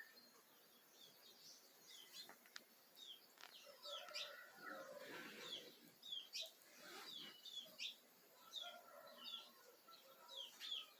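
A flock of small birds chirping, faint, with many short, quick, downward-slurred chirps overlapping throughout.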